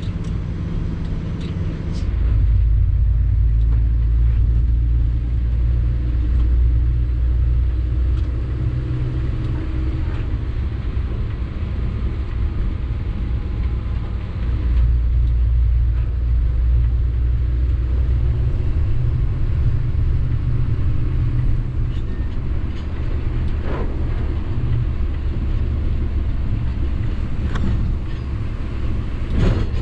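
Sany 6x4 dump truck heard from the cab while driving: a steady, heavy low engine and road rumble that gets louder about two seconds in, with a few faint clicks.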